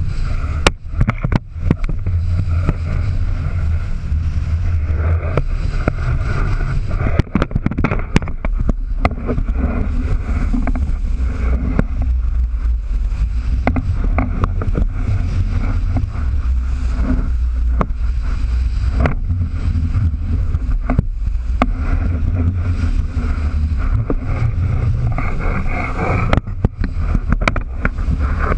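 Wind buffeting the microphone over the rush of water aboard a sailboat at sea, with a heavy low rumble that swells and eases, and scattered knocks.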